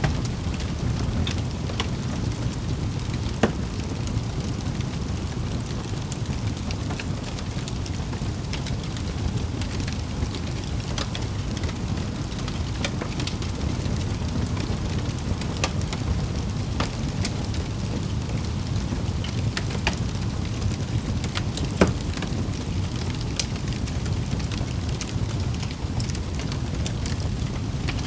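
Wood fire crackling in a fireplace: a steady low rumble of the flames with scattered sharp pops and snaps, the loudest pop about 22 seconds in.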